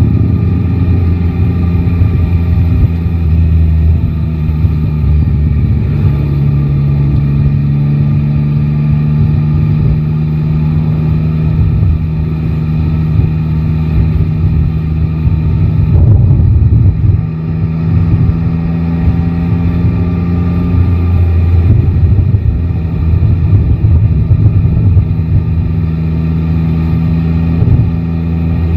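Yamaha Tracer 9 GT's inline three-cylinder engine running under way at steady road speed, its note shifting about six seconds in and again around sixteen seconds in, with wind rushing over the microphone.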